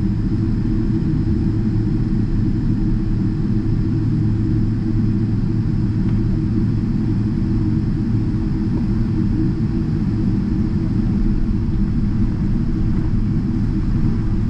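Steady low rumble inside the cabin of a Boeing 777-300ER taxiing: its GE90 engines at taxi power and the airframe rolling on the taxiway, with a faint steady high whine over it.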